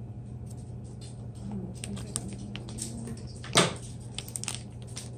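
Scattered light clicks and taps from handling small objects, with one sharp knock about three and a half seconds in, over a steady low hum.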